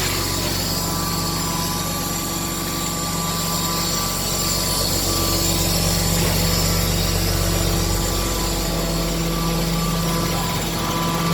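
Diesel engine of a 1976 Mercedes-Benz 1519 ladder fire truck running steadily, with an even low hum.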